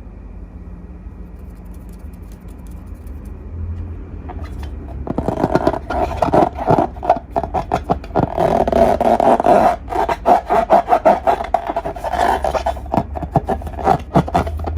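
Hands working slime and balloons: close-up rubbing and scraping, full of small clicks and crackles, begins about five seconds in after a faint low hum.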